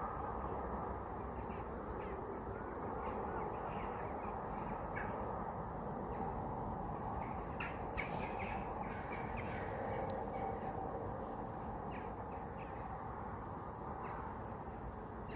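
Birds calling with short, harsh caws several times over a steady low outdoor rush, the calls bunched most thickly about eight seconds in.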